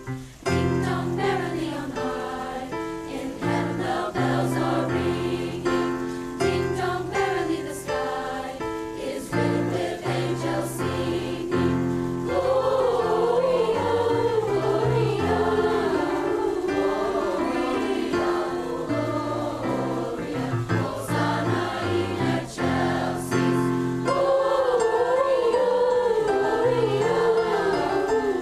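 Choir singing with piano accompaniment. The sung melody grows louder about halfway through.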